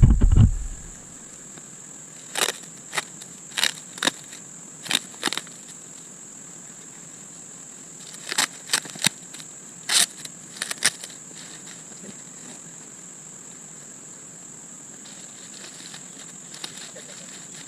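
Insects shrilling steadily at one high pitch, with a dozen or so sharp clicks and crackles in two clusters, the first a few seconds in and the second about halfway through.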